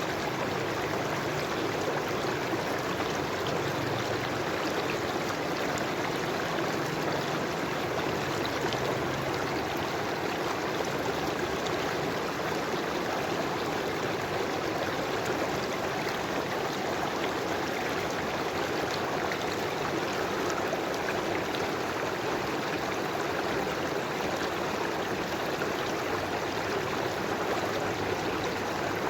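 River water flowing steadily over rocks, an even rushing with light trickling and gurgling.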